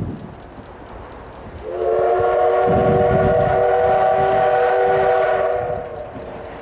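Steam whistle of the C12 66 steam locomotive blowing one long blast of about four seconds, a chord of several steady tones, with a low rumble underneath.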